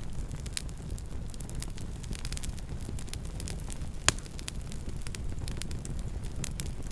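Campfire burning: a steady low rumble with frequent small crackles and one loud pop about four seconds in.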